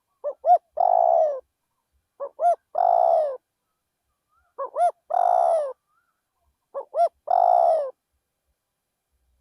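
Spotted dove cooing: four calls about two seconds apart, each two short coos followed by a longer coo that falls away at its end.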